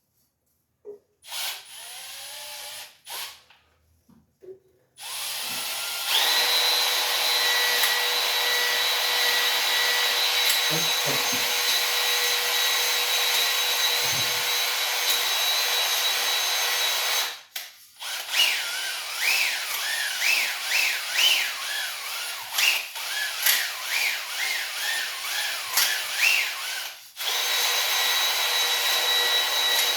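Electric drill spinning a cylinder hone in a bore of a Ford 289 V8 block, honing the cylinder wall. It starts with a few short bursts, then runs long and steady with a high whine. About halfway through it stops briefly and comes back uneven and pulsing, then steadies again near the end.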